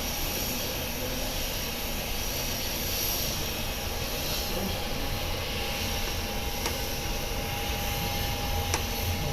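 Airliner engines running steadily: a low rumble with a thin, steady whine over it.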